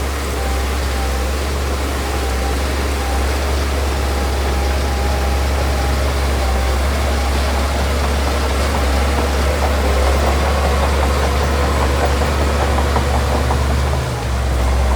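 The diesel engine of heavy earthmoving machinery runs steadily with a deep rumble. A light, rapid rattle builds in the second half and eases with a brief dip near the end.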